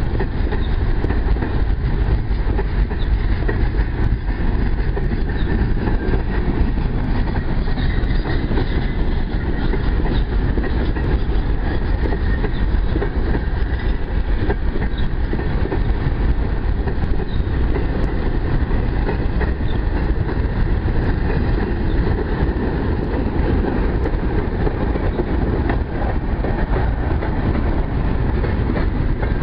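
Empty freight wagons of a long train, steel-wheeled boxcars and grain hoppers, rolling steadily past on the rails at close range.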